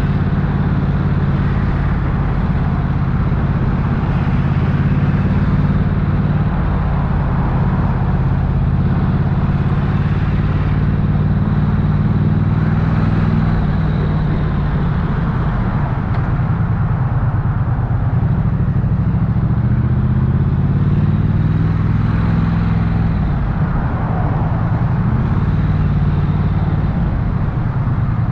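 Triumph Bonneville's parallel-twin engine and exhaust, ridden at low speed through traffic, running steadily with its pitch falling and rising a few times as the throttle is eased and opened.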